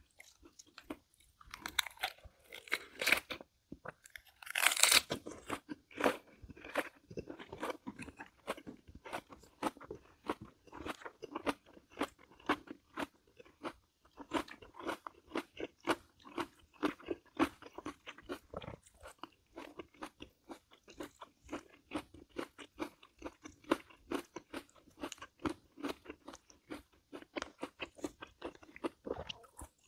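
A person chewing and crunching food in a mukbang, with a few louder crunchy bites in the first five seconds, then steady wet chewing with many small clicks.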